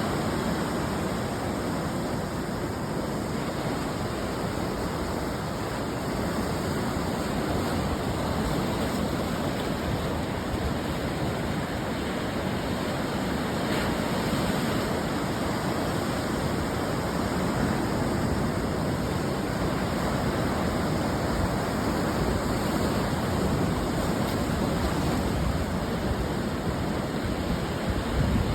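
Ocean surf breaking on the shore, a steady dense wash of water noise that swells and eases gently.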